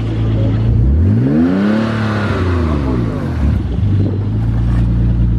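Twin-turbo Nissan 370Z's V6 engine idling, then revved once about a second in: the pitch rises smoothly, peaks briefly and falls back to a steady idle a little past three seconds in. The engine is still warming up.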